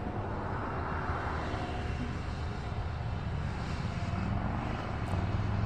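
A steady engine drone, growing slightly louder toward the end.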